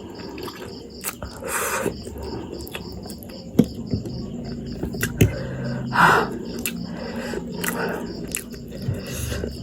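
Eating of spicy instant noodles: several short, noisy slurps or sharp breaths and a few sharp clicks of a utensil. A faint, steady high chirping repeats evenly in the background.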